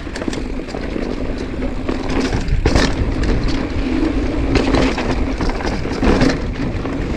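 Mountain bike riding over a rough dirt trail: tyres crunching over rocks and dirt, with steady rattling and clattering from the bike and one harder knock a little under three seconds in. The chain is slapping because the rear derailleur's clutch was left switched off. Deep wind rumble on the microphone.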